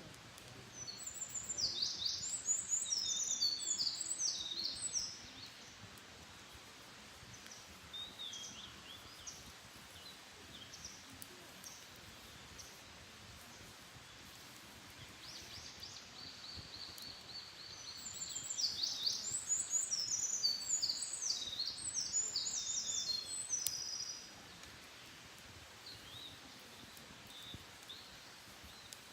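A songbird singing two long, fast, high-pitched songs of rapid tumbling notes, each lasting about four seconds, with a few quieter calls between them.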